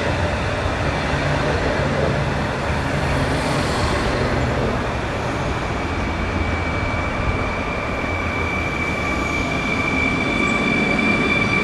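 Train running with a steady rumble; from about halfway, a high steady whine comes in and grows.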